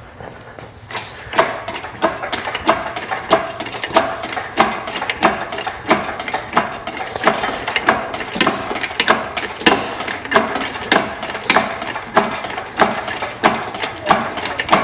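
Hand ratchet wrench being worked on a bolt, its pawl clicking through each swing at about one and a half strokes a second.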